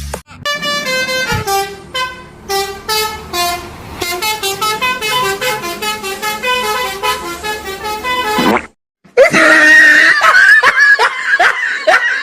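Bus telolet horn (Basuri multi-tone horn) playing a tune of stepped notes, which stops about eight and a half seconds in. After a short gap it comes back louder as quick rising toots, about three a second.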